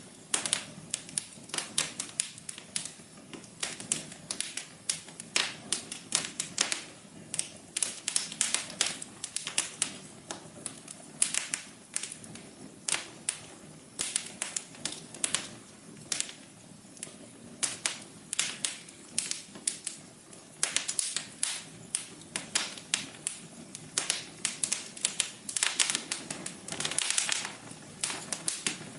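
Wood fire crackling in a fireplace: dense, irregular snaps and pops over a low steady rush of the burning logs.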